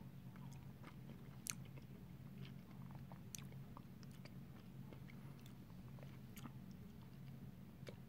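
Faint chewing and biting of a frozen brown sugar ice cream bar with tapioca pearls in it: scattered sharp clicks and small crunches from the mouth, the loudest about a second and a half in. A steady low hum runs underneath.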